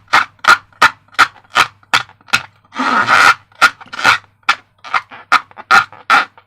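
Slime being squeezed and worked by hand, a quick, even run of wet squelches about two and a half a second, with a few longer squishes about three seconds in.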